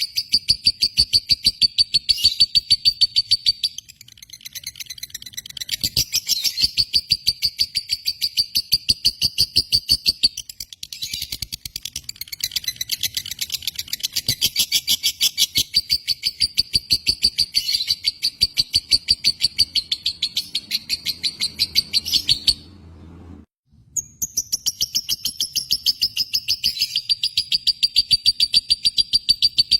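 Lovebird chattering: a long unbroken string of rapid, sharp, high chirps, about seven a second. The run breaks off briefly about 23 seconds in, then resumes.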